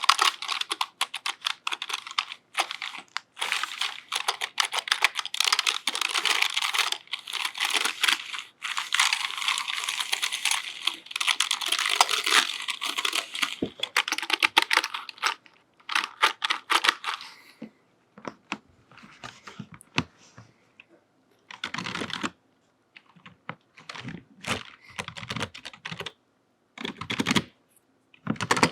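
Computer keyboard typing: a fast, dense run of key clicks for the first two-thirds, then slower, scattered key taps and a few heavier strokes with silent gaps between.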